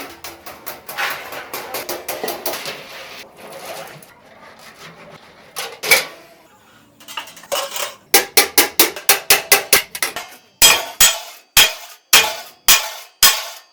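Hammer blows on metal, as in shaping the sheet steel of a truck exhaust silencer. A few seconds of light clatter give way to a single blow, then a quick run of strikes, then steady blows about twice a second.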